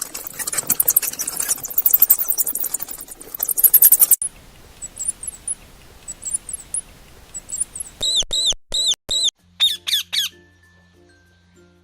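High-pitched animal calls: a dense, fast chatter at first, then sparse faint chirps, then four loud squeaky calls in a row and a quick run of shorter ones. Soft plucked-string music comes in near the end.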